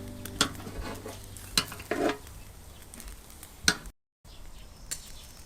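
Pork skewers sizzling over hot charcoal in a mangal, a soft steady hiss broken by a few sharp clicks, with a brief dropout a little before the end.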